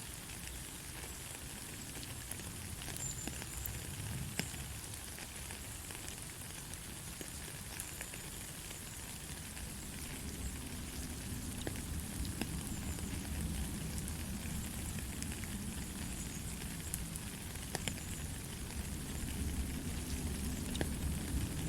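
Steady light rain: an even hiss with scattered sharp drop ticks, and a low rumble that grows in the last few seconds.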